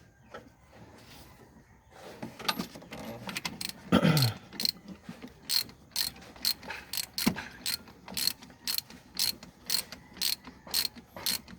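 Socket ratchet wrench clicking as it is worked back and forth on engine bolts, settling into a steady run of about two clicks a second. About four seconds in, a short louder sound falls in pitch.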